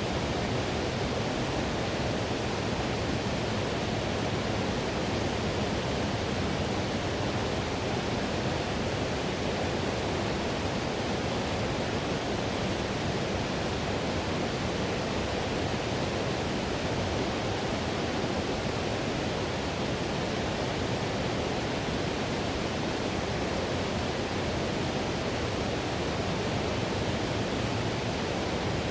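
Whitewater river rushing over rapids, a steady, even roar of water with no change.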